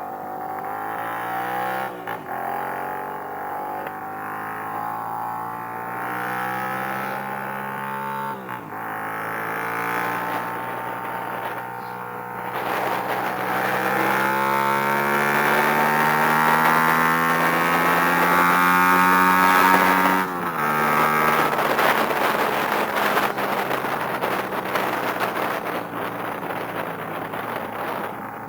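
Sport motorcycle engine accelerating through the gears: the pitch climbs steadily and drops sharply at each upshift, three times, with rushing wind growing louder as speed builds.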